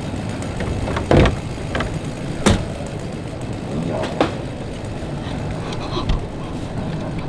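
Steady background noise broken by three sharp knocks, one after another a second or more apart.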